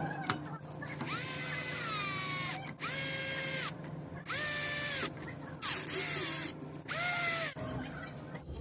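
A small high-revving motor whining in five short bursts of about a second each, its pitch rising as each burst starts and falling away as it stops, over a steady low hum.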